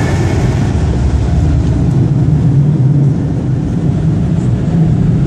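Automatic car wash air dryer blowing over the car, heard from inside the cabin as a loud, steady low rumble with a rushing hiss above it.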